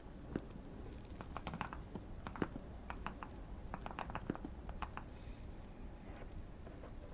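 Typing on a tape- and foam-modded Keychron Q1 mechanical keyboard: irregular keystrokes clustered in the middle, then pausing near the end. Light fire crackle ticks faintly underneath.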